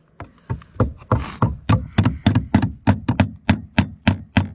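Hammer driving nails to fix fibre-cement artificial slates, a quick even run of sharp knocks at about four strikes a second.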